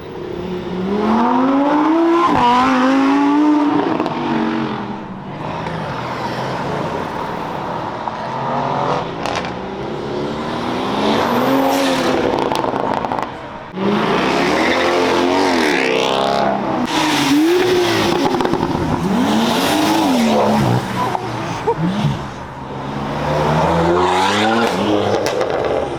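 Car engines revving hard, their pitch climbing and dropping in a series of throttle blips one after another, with a short lull about halfway through.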